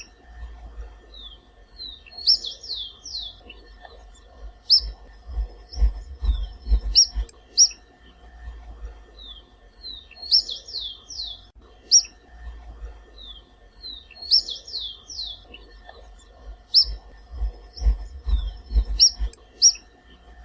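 Vermilion flycatcher (Pyrocephalus rubinus) singing: repeated short phrases of quick, high notes, coming back every few seconds.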